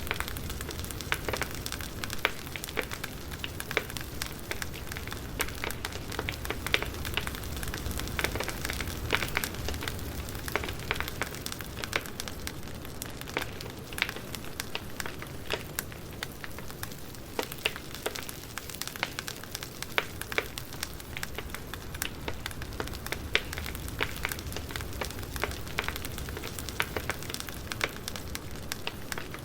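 Wood fire crackling, with irregular sharp pops and snaps over a steady low rumble and hiss.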